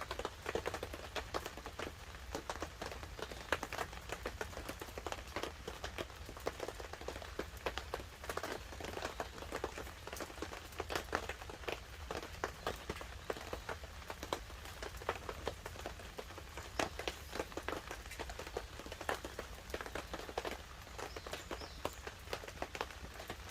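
Wood fire crackling with irregular pops and snaps, while light rain patters on the tarp overhead.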